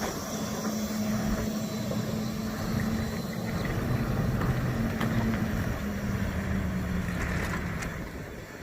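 Semi-truck's diesel engine running steadily with a low hum, its pitch stepping slightly lower about six seconds in and the sound easing off near the end.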